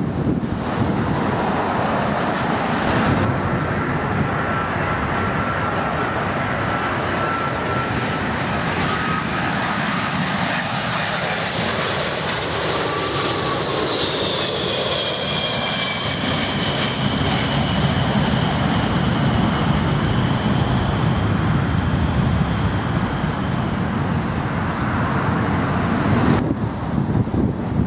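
Jet airliner's engines passing close by: a steady rush of engine noise with a thin fan whine, and later a higher whine that slides down in pitch as the aircraft goes past.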